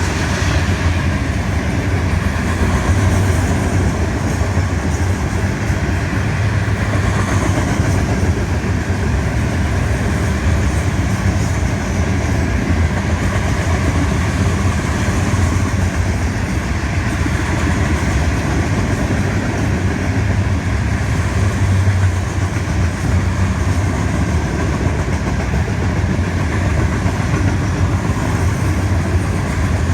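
Florida East Coast Railway freight train rolling past: a loud, steady rumble of the train and its wheels on the rails.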